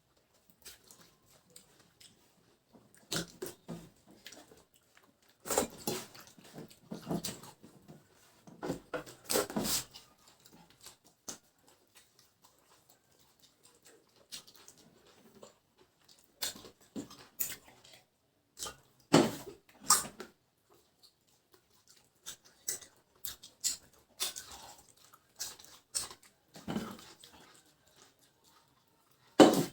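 Close-up eating sounds from people eating rice and vegetable dishes: irregular chewing and mouth sounds with a few sharper knocks.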